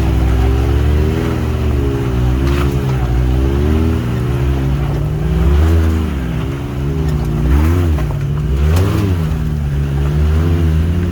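Can-Am Maverick X3 side-by-side's turbocharged three-cylinder engine under repeated on-off throttle while crawling over rough trail. The revs rise and fall every second or so, with a few brief knocks.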